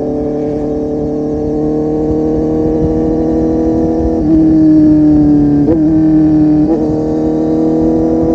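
Kawasaki Z800's inline-four engine running through a full-system aftermarket exhaust while riding, its note steady and slowly rising in pitch. It gets louder about four seconds in as the throttle opens, and the pitch dips briefly twice near the end.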